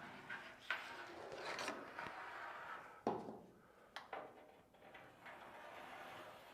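Quiet handling sounds while a panel is fitted: rubbing and scraping for a couple of seconds, then two sharp knocks about a second apart.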